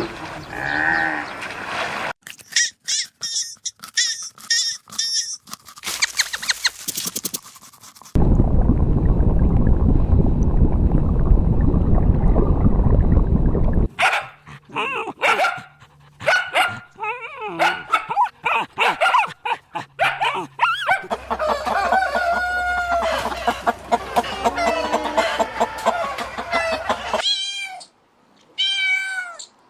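A string of different animal recordings cut one after another, with dog barking among them: short pitched calls, clicking stretches, and a stretch of loud rough noise in the middle. Near the end come a few separate short calls that curve in pitch.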